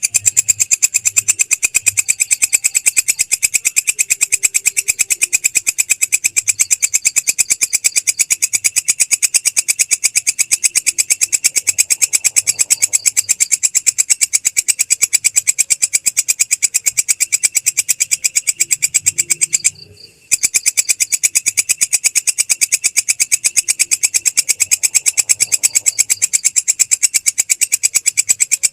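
Belalang krek insect calling: a loud, high-pitched train of rapid, evenly spaced rasping clicks that goes on without pause, apart from a brief half-second break about twenty seconds in.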